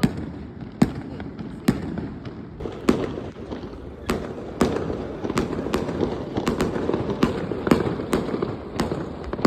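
Fireworks going off: a string of sharp bangs at irregular intervals, roughly one or two a second.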